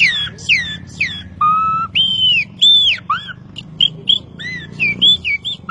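A man whistling an imitation of the sofrê (campo troupial) song. It opens with a few quick falling whistled notes, then a held lower note about a second and a half in, followed by arched higher notes and a run of short notes near the end.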